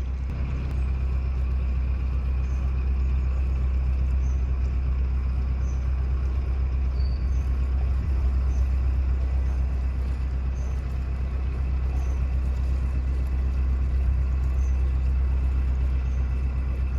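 Narrowboat engine running steadily at cruising speed, a constant low hum with a faint high tick about once a second.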